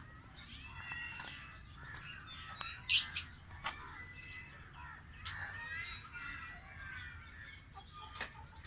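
Several small birds chirping and twittering together, many short overlapping notes, with a few sharp loud notes about three and four seconds in.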